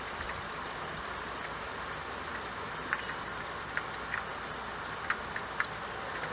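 Steady rain, an even hiss of falling drops, with a few louder single drops ticking on a hard surface now and then.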